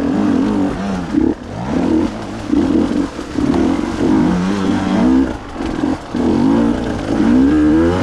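Two-stroke enduro motorcycle engine under riding load, its pitch climbing and dropping again about once a second as the throttle is worked on and off.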